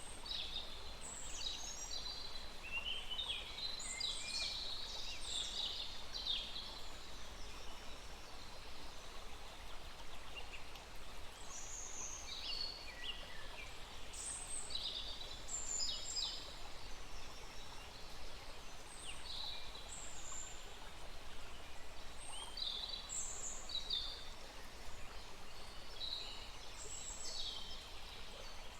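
Several songbirds chirping and trilling in quick, high-pitched phrases, one after another, over a steady hiss of a small stream running.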